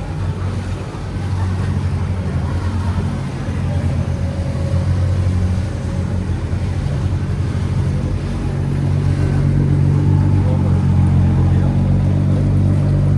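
Diesel engine of a boat on the canal running steadily, getting louder about two-thirds of the way through as it comes closer or works harder.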